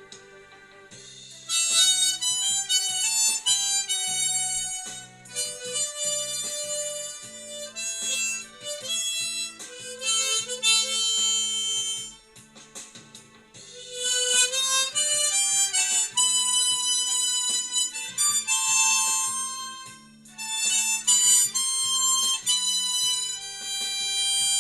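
Harmonica in the key of G playing a slow melody in phrases, pausing briefly about a second in and again around twelve seconds in, over a low sustained accompaniment.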